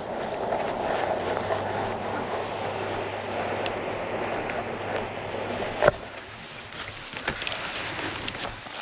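A vehicle's engine idling close by with a steady low hum, then a sharp thump about six seconds in, after which it is quieter.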